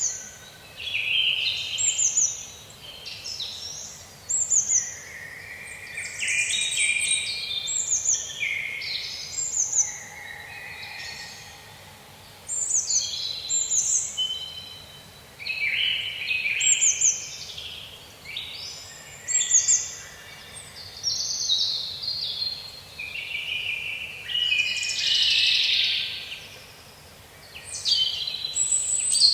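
Songbirds singing in a forest: a steady run of short, quick phrases of falling high notes, one after another every second or two, over a faint background hush.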